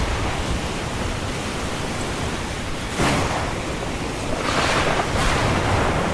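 Ocean surf washing steadily on a shore, with a wave breaking suddenly about halfway through and further swells of surf after it.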